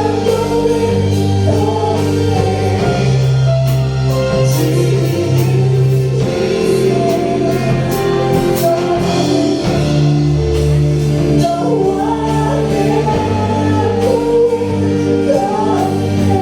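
Live worship band playing a gospel song with bass and keyboard chords under singers, a congregation or choir singing along.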